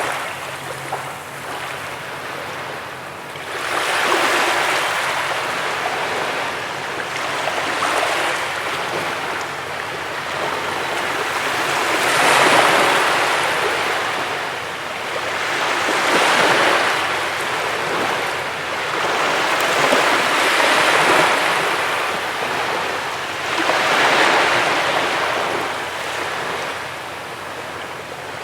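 Sea waves breaking on a beach, the surf swelling and washing back in repeated surges about every four seconds.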